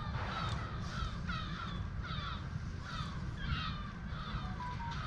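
A bird calling over and over, about two short, harsh, falling calls a second.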